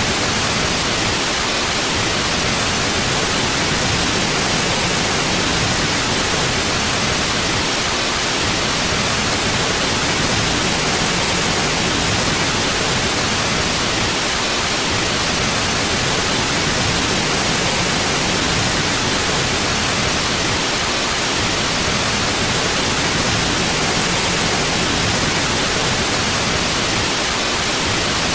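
Steady white noise: an even, unchanging hiss across the whole range of pitch, played continuously as a sleep sound.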